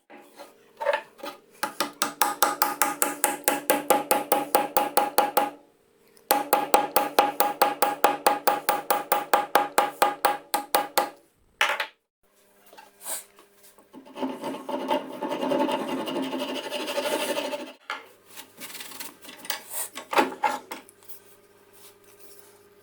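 Quick back-and-forth rubbing strokes of a hand file or sandpaper on the sledgehammer, about five strokes a second, in two runs of several seconds. These give way to a few seconds of steadier rubbing and some scattered scrapes.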